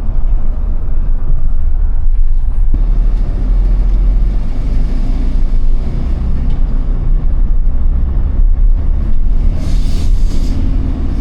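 A vehicle driving on the road: a steady low rumble of engine and road noise, with a short burst of hiss near the end.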